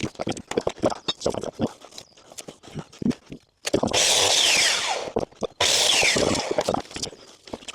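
Power saw cutting through wooden slats in two cuts, each about a second long, with a whine that falls in pitch during each cut. Before and after the cuts come scattered knocks of wood being handled.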